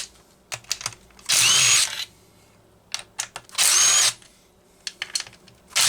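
Power drill-driver backing out the screws of a chainsaw's starter cover: three short runs, each spinning up with a rising whine and lasting under a second, with small clicks between them.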